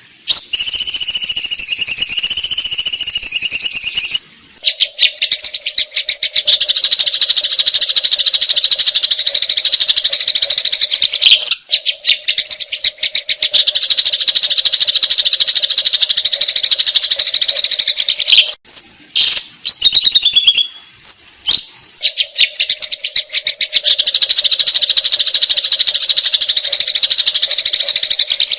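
Sparrows fighting: a loud, very fast, unbroken chatter of harsh notes in long runs, broken near the middle by a few seconds of separate short calls. It opens with a few seconds of wavering whistled song.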